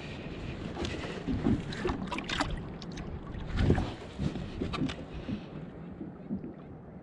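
Water sloshing against a kayak hull with wind on the microphone, and scattered irregular knocks and clicks; the strongest thump comes a little past the middle.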